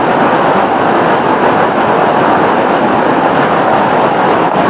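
Loud, steady rush of a waterfall: the Jhaljhali river falling over rock at Machkanda.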